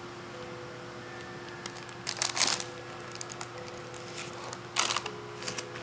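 Thin plastic bag crinkling in short bursts as a cat licks and chews at it, loudest about two seconds in and again near five seconds, with small clicks between. A faint steady hum lies underneath.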